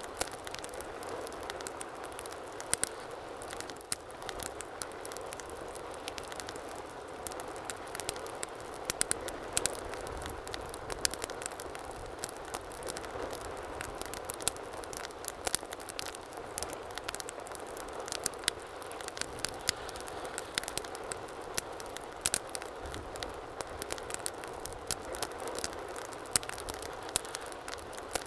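Wood fire burning in a fireplace: a steady low hiss of flames with frequent irregular crackles and pops, some much sharper than others.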